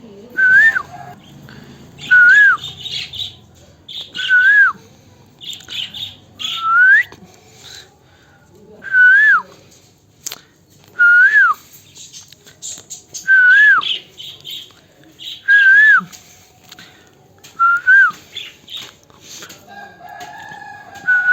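Pet parrot calling over and over, about ten short calls roughly two seconds apart, each a whistle-like note that rises and then drops sharply.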